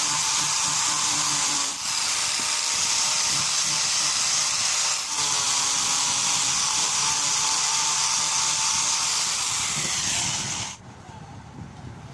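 Handheld electric power tool running steadily with a high hissing whine. It dips briefly twice, then is switched off near the end.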